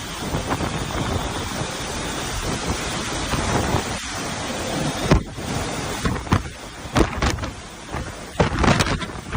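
Hurricane wind and heavy rain: a steady rush of rain for about five seconds, then choppier, with sudden gusts and sharp knocks hitting the microphone.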